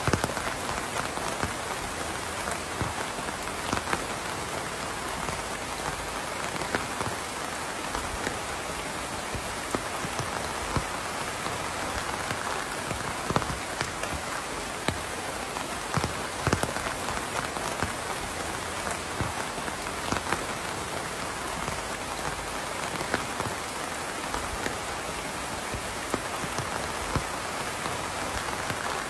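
Steady rain falling, an even hiss with scattered louder drops striking a surface.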